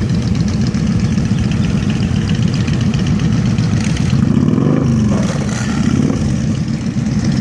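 Motorcycle engine running on the ride, a steady low pulsing, with its pitch rising and falling a few seconds in.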